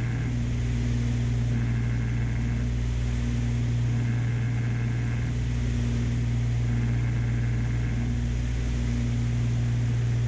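Twin piston engines and propellers of a Beechcraft Baron B55 droning steadily in the cabin at cruise, set to 2400 RPM. The drone swells and fades every couple of seconds, the beat of the two propellers turning at slightly different speeds.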